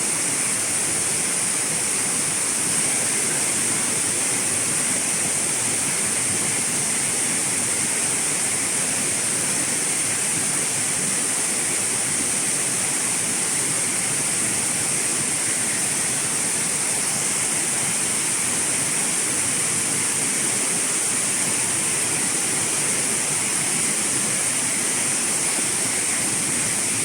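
Steady rush of a waterfall: even, unbroken water noise with a bright high-pitched hiss on top.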